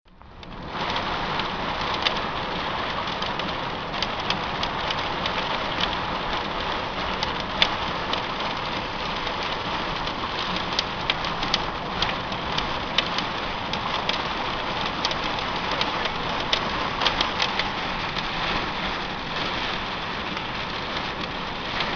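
Heavy rain hitting a car while it drives: a steady hiss with many sharp, irregular drop impacts on the glass and body.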